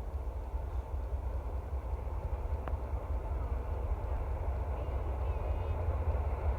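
CSX diesel locomotives approaching at the head of an empty coal train: a low rumble growing slowly louder, with one sharp click about two and a half seconds in.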